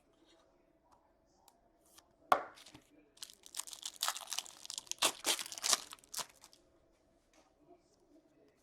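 Foil wrapper of an Upper Deck SP Authentic hockey card pack being torn open and crinkled. A sharp snap comes a little past two seconds in, then about three seconds of tearing and crinkling.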